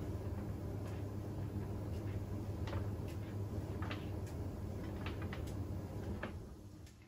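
Siemens iQ700 front-loading washing machine running: a steady low hum with scattered light clicks from the drum. The sound fades out quickly near the end.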